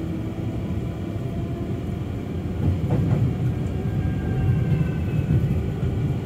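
Electric suburban train running along the track: a steady low rumble of wheels on rail with a faint shifting whine. A few clacks sound about three seconds in as it crosses the level crossing, and the rumble grows a little louder after that.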